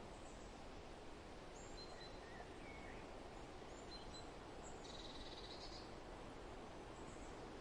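Forest ambience: a steady rustle of wind, with small birds giving scattered short, high chirps and one buzzy trill about five seconds in.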